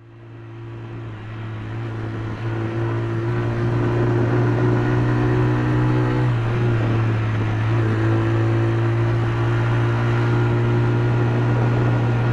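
Motorcycle engine running steadily, fading in over the first few seconds, with a brief wavering in pitch about six seconds in.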